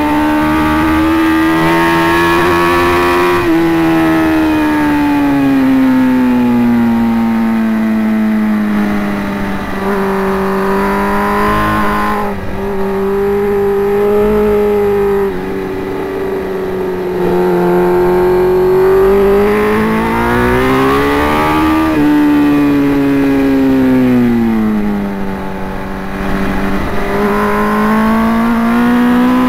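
Sport motorcycle engine at track speed, heard from the rider's helmet camera with wind noise. The pitch climbs under hard acceleration and falls away as the throttle closes for corners. There is a sharp drop in pitch about three-quarters of the way through, like a gear change.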